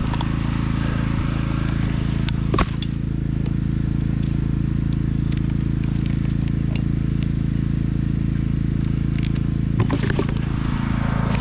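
Husqvarna lawn tractor engine on a custom log skidder running steadily at idle, with a single sharp knock about two and a half seconds in.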